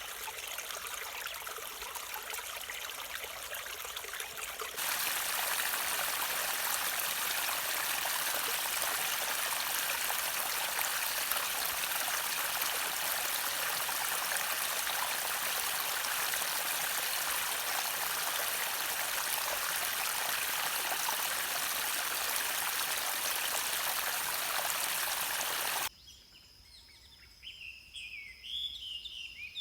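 Stream water flowing steadily, jumping abruptly to a louder, fuller rush about five seconds in. Near the end the water sound cuts off suddenly, leaving quiet birdsong over a faint, steady high tone.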